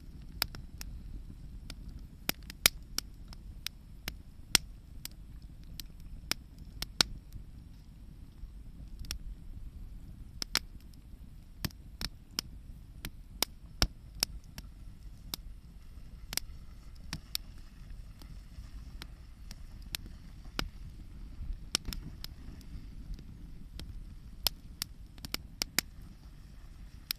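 Wood campfire crackling, with sharp, irregular pops and snaps over a low steady rumble.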